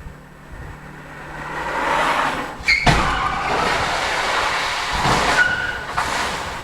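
Road vehicle noise swelling to loud, with a sharp bang about three seconds in and a second thump about two seconds later, typical of a car collision; the sound cuts off suddenly at the end.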